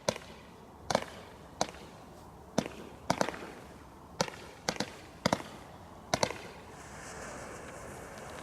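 Consumer firework from a Bright Star Giant Bonfire Selection Box going off in a string of sharp bangs, about a dozen at uneven intervals, some in quick pairs. The bangs stop about six and a half seconds in, and a steady rushing noise like wind on the microphone follows.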